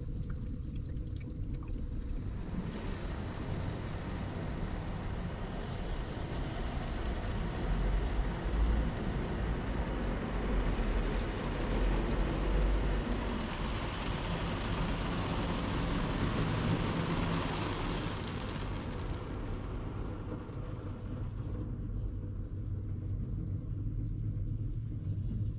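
Daifuku Fabrica automatic car wash machine running over a car: a steady low rumble, with a rushing hiss that comes in a few seconds in and cuts back about four seconds before the end.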